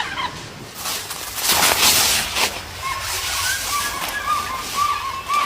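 Rustling, scraping noise, then a run of short, repeated chirping calls from capuchin monkeys, about three a second.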